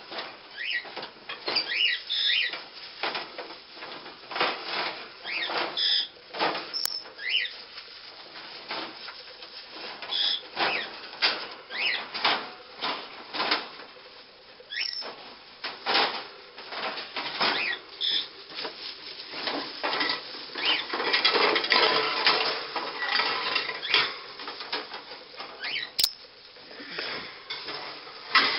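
Metal wire bird cage being handled and put together: repeated clanks, clicks and rattles of the wire panels and parts, with rustling, and a few short parrot chirps.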